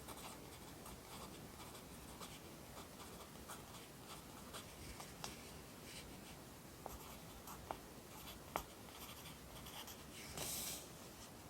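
Pencil writing Korean characters on paper: faint, short scratchy strokes, two sharper taps about two-thirds of the way in, and one longer, louder stroke near the end.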